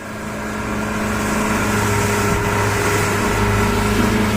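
Motorboat engine running steadily, with water and wind noise. The sound fades in at the start.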